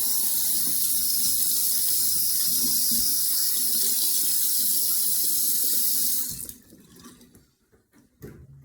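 Water running steadily from a tap into a sink, then shut off about six seconds in.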